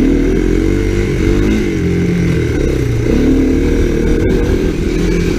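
Honda ATC three-wheeler engines running under changing throttle, their pitch rising and falling as they ride through snow.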